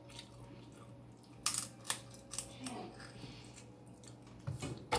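Close-up eating of snow crab legs: a few sharp cracks and clicks, the loudest about one and a half seconds in and a cluster near the end, over a faint steady hum.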